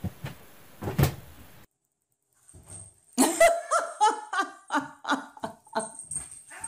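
A person laughing in a fast run of short 'ha' sounds from about three seconds in, the loudest part. Before it come two dull thumps about a second apart.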